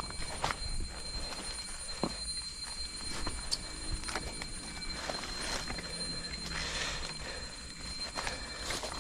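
Footsteps crunching on leaf litter and twigs on the jungle floor, irregular steps, over a steady high-pitched tone in the background.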